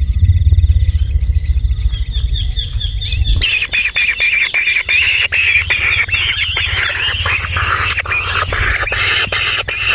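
Dense, rapid bird chirping starts about three seconds in and carries on, over a steady pulsing insect trill. A low rumble is heard before the chirping begins.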